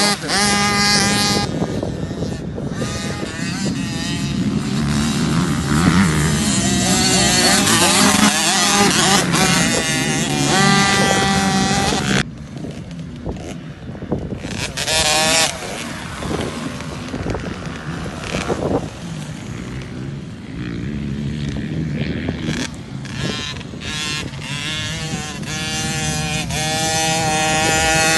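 KTM SX50 two-stroke motocross bike engine revving up and down as it is ridden round the track, its pitch rising and falling with the throttle. The sound drops away suddenly about twelve seconds in and grows louder again near the end.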